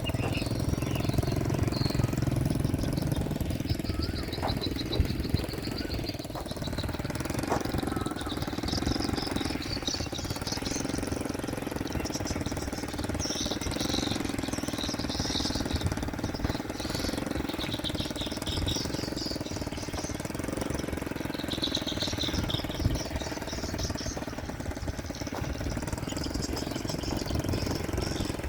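Small motorbike engine running steadily at low speed, with high chirping that comes and goes above it.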